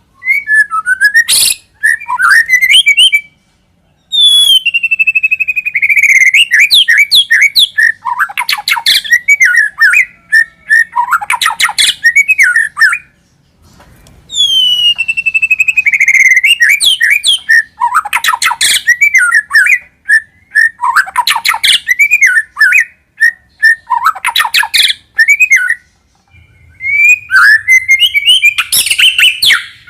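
White-rumped shama (murai batu) singing loudly in long bouts of varied clear whistles and rapid chattering notes. Some bouts open with a whistle gliding down, and short pauses fall between the bouts.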